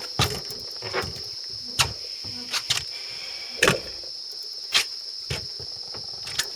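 A steady high-pitched insect drone, with irregular sharp clicks and knocks every second or so.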